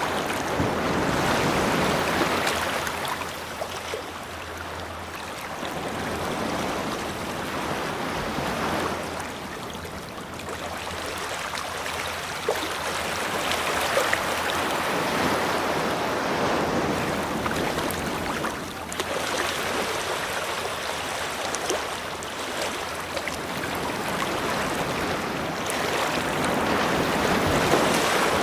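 Ocean waves washing onto a beach, the surf swelling and easing every several seconds.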